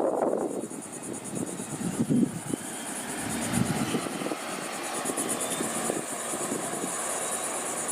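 A steady engine drone from a passing aircraft or vehicle builds a few seconds in. Under it runs a constant high, pulsing insect buzz.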